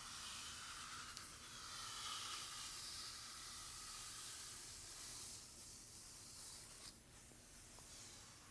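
Bristles of a brush drawn through hair: a soft, continuous brushing hiss that eases off about seven seconds in.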